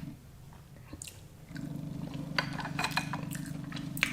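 A person eating: chewing and mouth sounds with a few sharp clicks of utensils against a dish, mostly in the second half, over a steady low hum.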